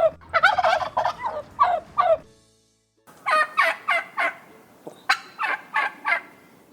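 A turkey gobbling: two runs of rapid, rattling calls with a short pause about two seconds in.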